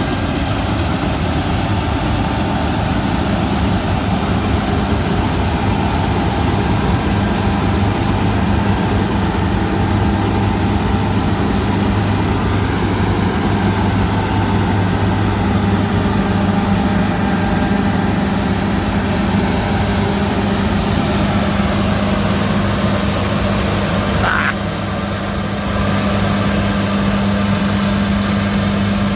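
John Deere tractor's diesel engine running steadily with a constant low hum. Near the end comes a short high squeak and a brief drop in level.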